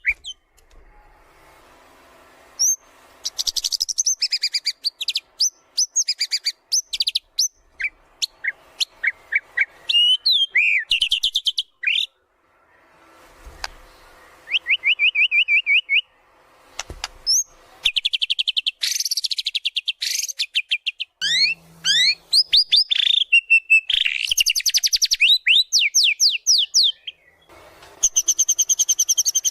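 White-rumped shama singing in full voice: phrases of fast, high trills and rapid runs of repeated sweeping notes, separated by short pauses.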